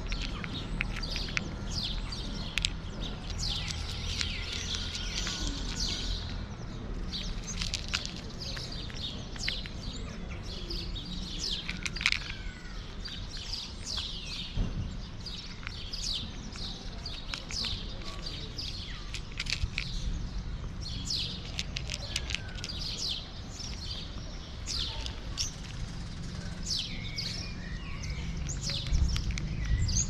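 Small birds chirping and twittering continually, many short, high, rapid calls overlapping, over a steady low rumble.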